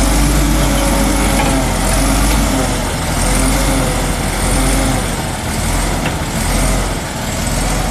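Caterpillar D7H bulldozer's six-cylinder turbo diesel engine running steadily, its sound swelling and easing in slow, regular pulses about a second apart.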